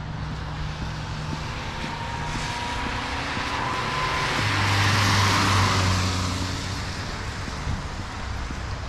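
A road vehicle driving past with tyres hissing on the wet road, its engine running under the hiss; it swells to its loudest about five seconds in, then fades away.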